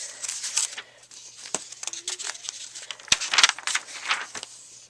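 Paper rustling and crinkling in irregular bursts as the pages of a handmade paper book are handled and turned, with a sharp click about three seconds in.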